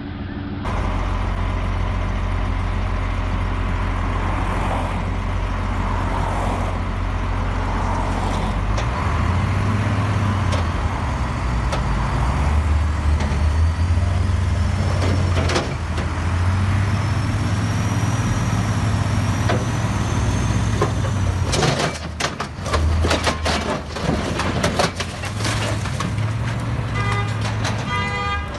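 Heavy machine or truck engine running with a deep, steady hum that shifts up and down in pitch. Near the end come a series of sharp knocks and clatter.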